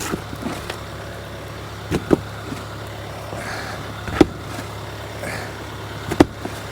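Snow shovel scraping and knocking against pavement in short strokes, four times, while shifting sticky snow. A steady low hum runs underneath.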